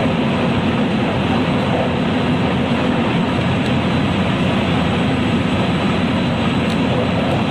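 Running noise heard inside a JR West 223 series electric train's motor car, KuMoHa 223-3016, on a Special Rapid service: a steady rumble of wheels on rail and the running gear as the train travels at speed.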